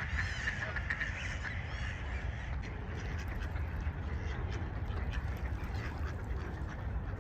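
Ducks quacking and small birds chirping, most in the first couple of seconds, over a steady low rumble.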